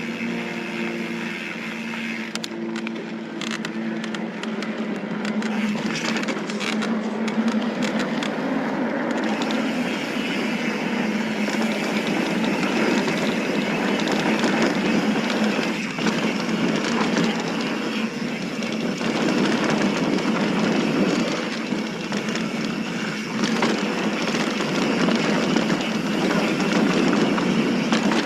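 Mountain bike riding over a loose, rocky dirt trail: tyres crunching over gravel and rocks and the bike rattling, a continuous uneven clatter that grows louder a few seconds in.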